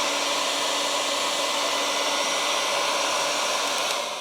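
Heat gun blowing steadily as it warms a brake caliper to drive out moisture before painting; it is switched off about four seconds in and its fan winds down.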